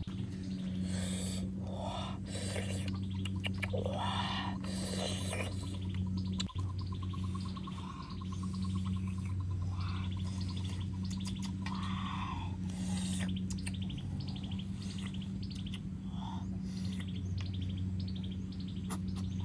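Birds chirping in short, scattered calls over a steady low hum, with a single sharp click about six seconds in.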